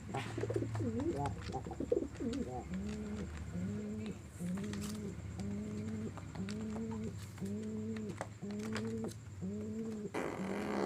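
Domestic pigeon cooing: after a couple of seconds of wavering, gliding notes, a steady run of short, low coos repeats about every 0.7 seconds, the repeated coo of courtship while pigeons are being paired for mating. A brief rustle, like wings, near the end.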